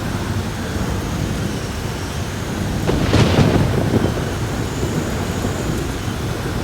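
Heavy rain falling steadily, with a thunderclap about three seconds in: a sharp crack followed by a second or so of low rumbling.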